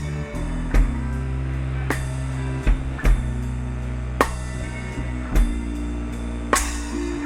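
Blues band playing live between vocal lines: a drum kit beat with bass drum and snare hits about once a second over held low notes, with a cymbal crash near the end.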